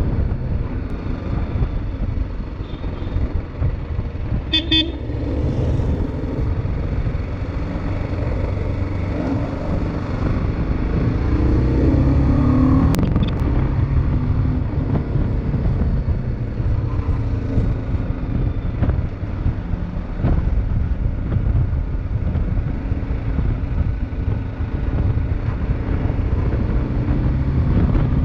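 A motorcycle riding on the road, its engine and road noise a steady low rumble with wind on the microphone. A vehicle horn toots briefly about five seconds in, and the engine rises in pitch for a moment near the middle.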